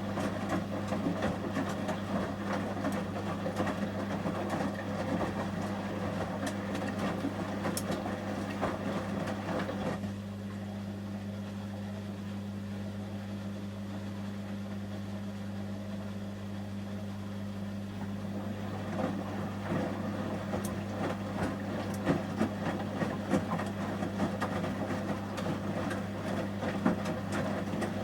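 Samsung front-loading washing machine in its wash cycle: the drum turns with a churning, clattering sound for about ten seconds, pauses for about eight seconds, then turns again, over a steady low hum.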